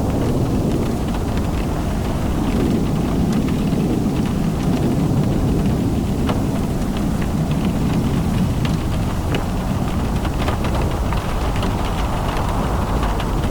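Rain falling during a car drive: a steady rumble of tyres on the wet road, with many scattered raindrop taps over it.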